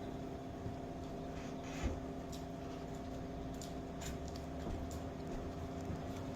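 A steady hum with several held tones, with a few faint light clicks scattered through it.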